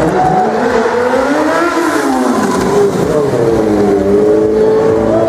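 Stunt motorcycle engine revving: the pitch climbs for about two seconds, drops back, then holds steady.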